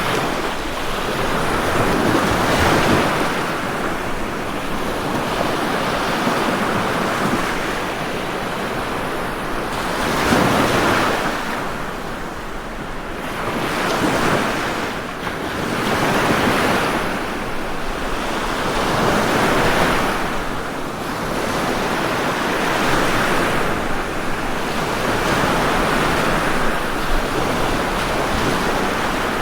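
Ocean waves breaking and washing up the shore, a steady surf that swells and ebbs every few seconds, with one stronger breaker about a third of the way through.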